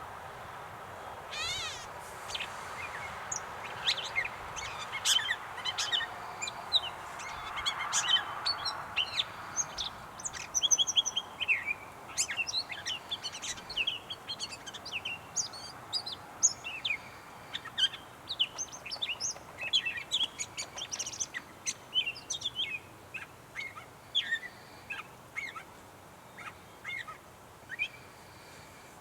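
Gray catbird singing: a long, rambling run of short, varied squeaky and chirping notes, one after another with little pause.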